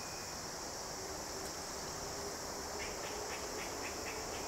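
Steady high-pitched insect chorus, with a rapid series of short ticks joining in over the second half.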